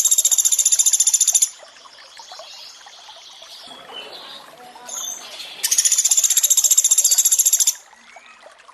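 Pelatuk beras calls: very fast, high-pitched rattling trills in two loud bursts of about two seconds each, the second starting a little over halfway through. Between the bursts is softer running water with a few faint chirps.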